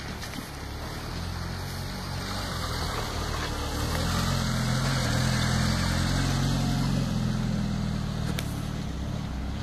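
Jeep Wrangler YJ engine running as the Jeep drives past, growing louder as it comes close and fading as it pulls away.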